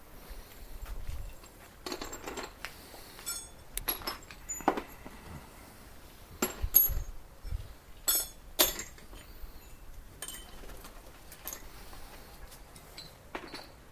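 Workshop handling sounds: hard metal tools and parts clinking and knocking in separate, irregular strikes, the loudest about seven and eight and a half seconds in.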